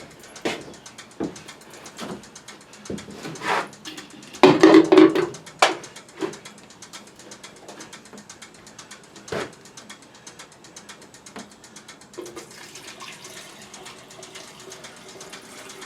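Small parts and a container being handled on a workbench: scattered clicks and knocks, with a louder clatter about four and a half seconds in, then quieter handling.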